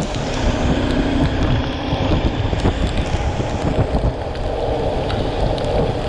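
Wind buffeting the microphone of a moving motorcycle, a steady loud rush with the engine and road noise underneath; a faint engine tone shows in the first couple of seconds.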